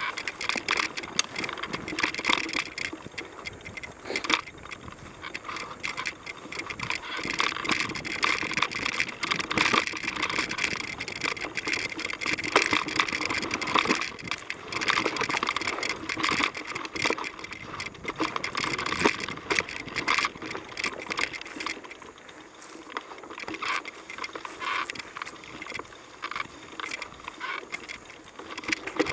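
Mountain bike riding along a dirt trail: tyres rolling over the ground, with frequent clicks and rattles from the bike over bumps.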